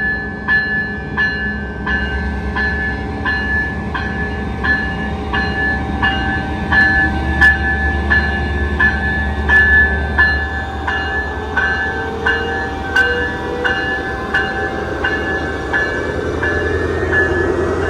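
Railroad grade-crossing bell ringing in an even beat of about one and a half strokes a second, over the low rumble of a passing train.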